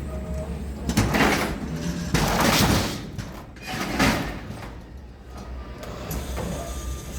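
Loud rattling, scraping bangs from a box truck's cargo area as it is loaded, three of them within about four seconds, over a low steady rumble.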